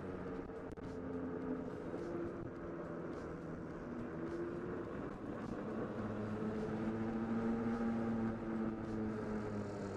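EGO electric mini bike riding along, its motor whining at a pitch that shifts up and down with speed, over steady tyre and road noise. The sound swells a little around two-thirds of the way through.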